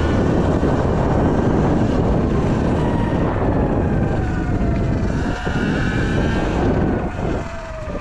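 Sur-Ron Light Bee X electric dirt bike's motor whining, its pitch gliding up and down with the throttle, under loud wind buffeting on the microphone. About seven seconds in the wind noise eases and the whine slides down in pitch.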